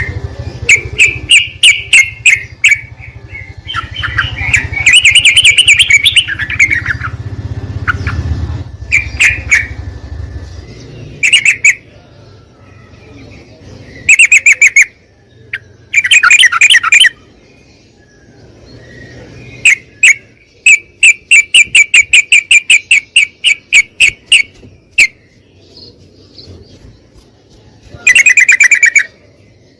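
Yellow-vented bulbul (trucukan) calling in loud bursts of bubbly, repeated chirps, with a long run of even notes at about four a second in the latter half. A low rumble sits underneath for the first third.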